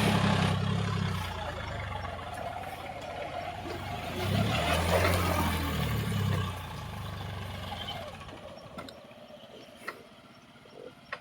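Massey Ferguson 7250 DI tractor's diesel engine running and revving up twice, at the start and again about four seconds in, then dying away and stopping near the end.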